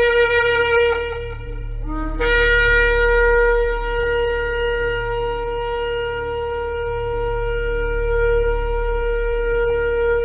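Shofar (ram's horn) blown in long held notes. One note ends about two seconds in, a brief lower note follows, then a long steady blast is held for the rest. A low steady hum runs underneath.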